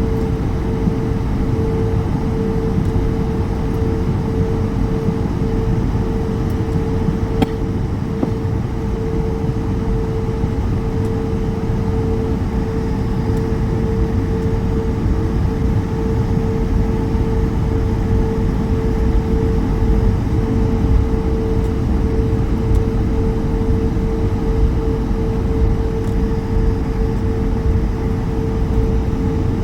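Airbus A220 cabin noise during taxi: a steady low rumble from the Pratt & Whitney PW1500G geared turbofans at low thrust and the rolling airframe, with a constant droning tone a little below 500 Hz. There is one faint click about seven seconds in.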